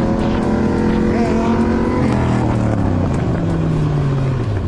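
Motorcycle engine running loud at high revs, then dropping in pitch about two seconds in and sliding steadily lower.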